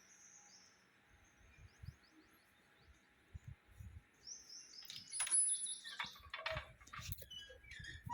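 Birds chirping: series of short, high chirps and quick falling notes, growing busier and louder in the second half.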